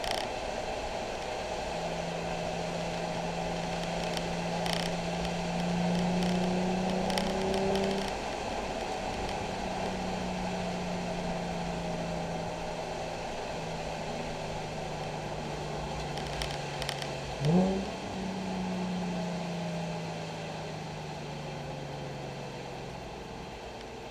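Nissan 370Z's 3.7-litre V6 running at low, gently varying engine speed, with one quick, sharply rising rev about 17 seconds in, the loudest moment. A few faint clicks.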